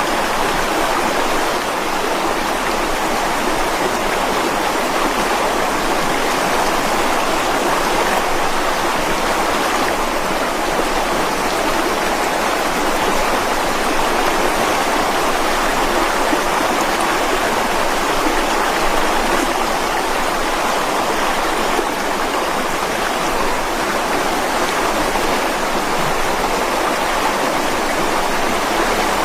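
Mountain stream flowing and splashing over rocks in a steady, unbroken rush of water.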